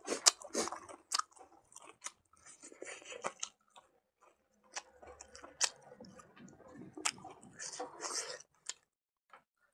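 A man chewing a mouthful of rice with pig blood, pork fat and leafy greens eaten by hand: wet smacks and sharp mouth clicks at irregular intervals.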